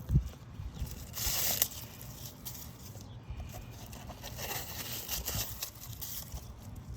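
Asphalt roof shingles being worked by hand during a repair: a dull thump at the start, a scraping, tearing rasp about a second in, then scattered light scrapes and taps.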